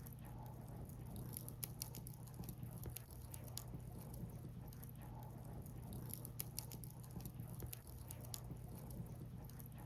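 Firewood burning, crackling with irregular small pops and snaps over a steady low rumble.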